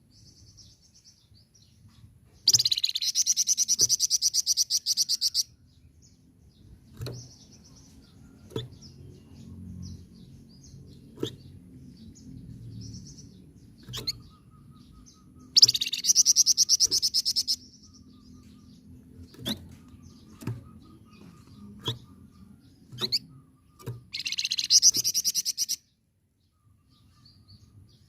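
A songbird known in Indonesia as the flamboyan singing in three loud bursts of rapid, chattering trills, the first about two and a half seconds in, another near the middle and a shorter one near the end. Short single chips sound between the bursts over a faint low rumble.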